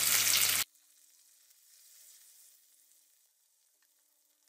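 Chopped onion, garlic, green chilli and curry leaves sizzling in hot oil in a kadhai. The sizzle cuts off abruptly under a second in, leaving near silence.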